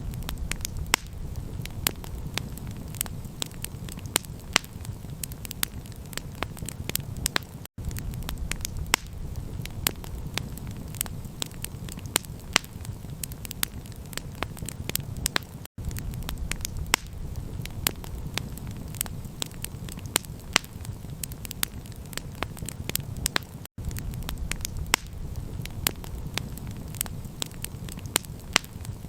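Campfire crackling, with many sharp pops and snaps over a steady low rumble. The sound cuts out for an instant about every eight seconds.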